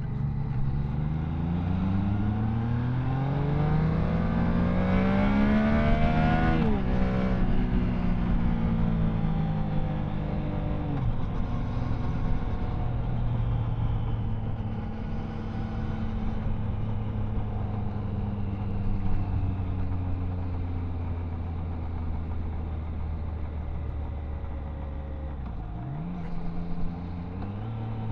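Triumph Tiger Sport 660's inline three-cylinder engine under way: the engine note climbs steadily for about seven seconds under acceleration, drops off sharply as the throttle closes, then settles into a steady cruising note. Near the end the revs rise briefly and fall again.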